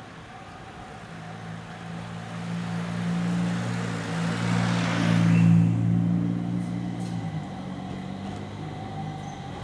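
A vehicle passing by: its noise swells to a peak about five and a half seconds in and then fades, over a steady low engine hum that drops a little near the end.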